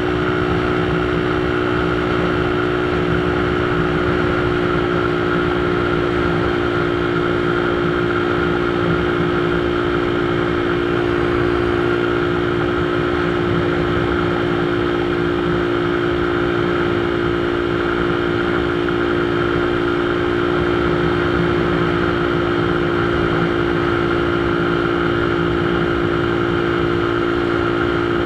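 Motorcycle engine running at a steady, unchanging speed, a constant drone with no revving.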